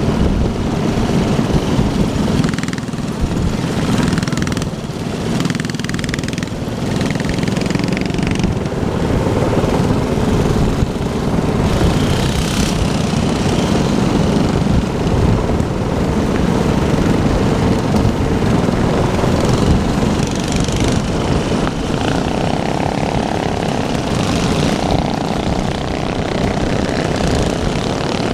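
Small minibike engines running and revving, with the pitch rising and falling.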